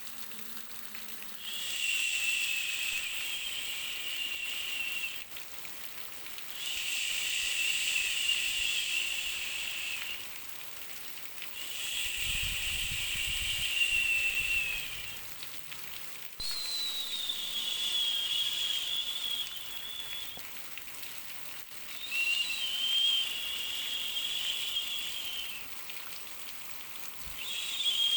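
Soothing baby white-noise track: a hissing, whistly 'shh' that swells for three to four seconds and eases off, repeating about every five seconds, its pitch shifting slightly from one to the next.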